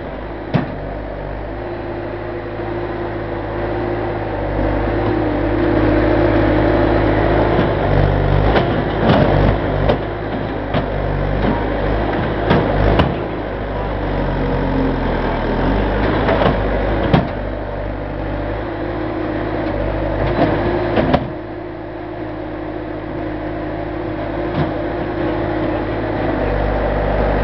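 An engine running steadily, its note shifting a few times, with scattered knocks and clanks.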